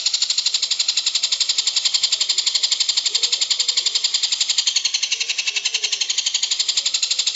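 Recorded songbird trill: a fast, even run of high chattering notes, about a dozen a second, going on without a break.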